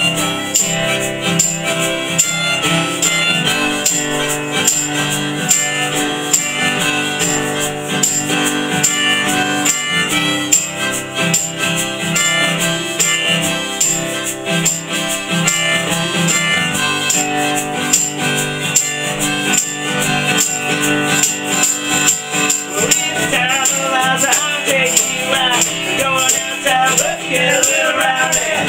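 Folk band playing an instrumental passage with a steady, even percussive beat under sustained chords; a wavering melody line with bending notes comes in about 23 seconds in.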